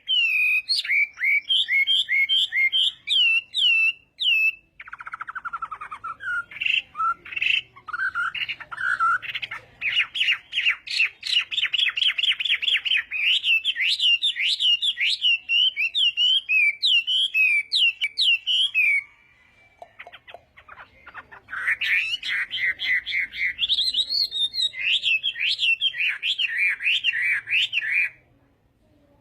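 Chinese hwamei singing long runs of rapid, varied whistled phrases and trills. There is a short break around four seconds in, a longer pause of about two seconds two-thirds of the way through, and the song stops shortly before the end.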